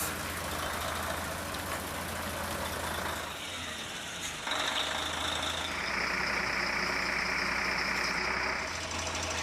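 Engine of a road-rail truck for catenary work running steadily, with a high whine joining about halfway through and a hiss for a few seconds near the end.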